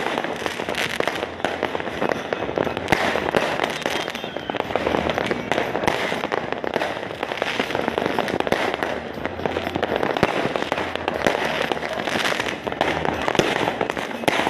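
New Year's fireworks and firecrackers going off in a continuous dense barrage: many overlapping cracks and pops with no pause.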